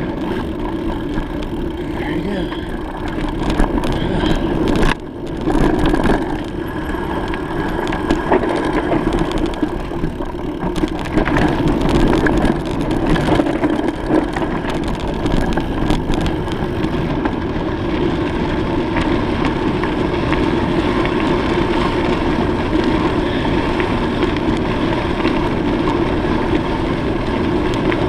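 Steady rumble and rush of riding a bicycle, wind and road noise on the microphone, with scattered clicks and rattles through the first half.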